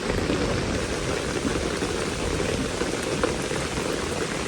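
Heavy rain pelting steadily on a camping tarp overhead, a dense unbroken patter.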